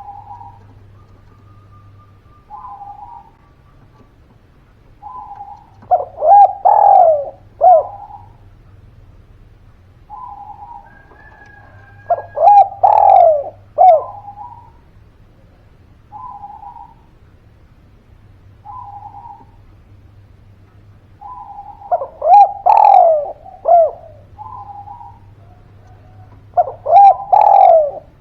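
Spotted dove (derkuku, tekukur) cooing: four loud multi-note coo phrases, with softer single coos in between.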